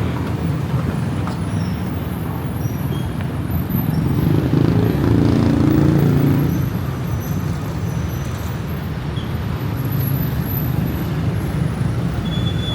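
Steady city road traffic, a mix of engines and tyre noise, with one louder vehicle passing from about four to six and a half seconds in.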